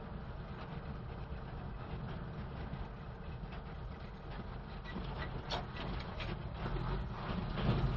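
Old truck's engine running as it drives, a steady low rumble with scattered rattles and knocks that grow louder near the end.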